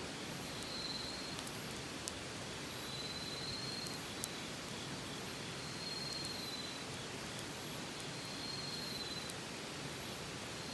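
Campfire burning with a soft steady hiss and a few sharp crackling pops, the loudest about two and four seconds in. An insect trills high at an even pace, each trill about a second long and repeating every two seconds or so.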